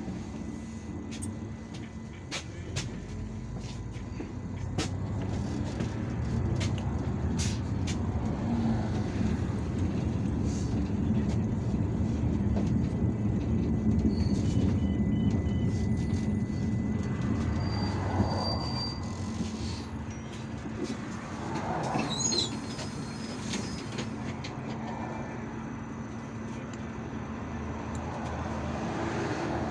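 Interior noise of an IVECO Urbanway 18M articulated city bus under way: a steady engine hum and road rumble that swell in the middle as it picks up speed, with rattles and a brief high squeal about two-thirds through.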